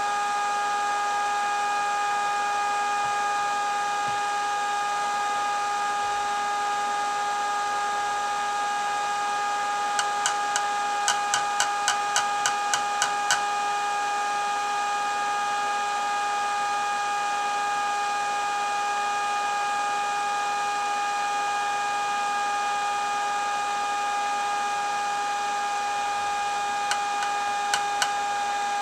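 A steady electrical hum with several high held tones over a hiss. A quick run of about a dozen clicks comes about ten seconds in, and three more come near the end.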